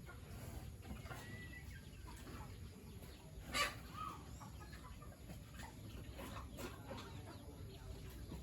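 Chickens clucking faintly, with one short, sharp, louder call about three and a half seconds in.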